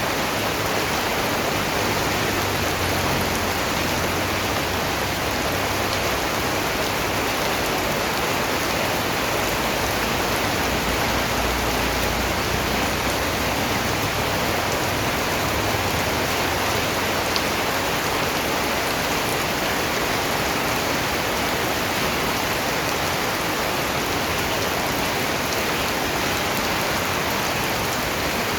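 Steady, dense rainfall hissing evenly on surfaces, with no let-up.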